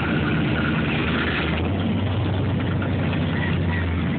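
A car engine idling steadily, a low even hum that grows stronger after about a second and a half.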